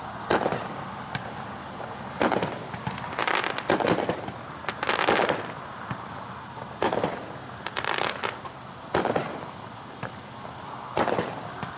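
Dominator Kraken 20-shot fireworks cake firing: a string of sharp shot reports about one to two seconds apart, several followed by a longer, noisier burst as the shells break in the air.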